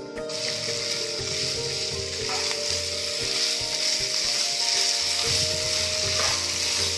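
Chicken masala sizzling in a non-stick frying pan as it is stirred with a wooden spatula, the masala frying down dry. The sizzle starts suddenly just after the start and runs on steadily.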